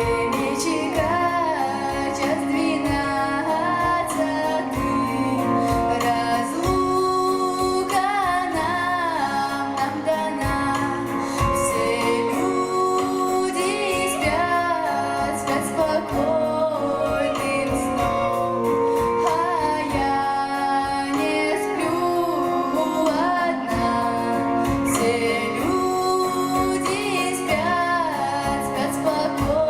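A young female voice singing a Russian folk-style song solo, with instrumental accompaniment.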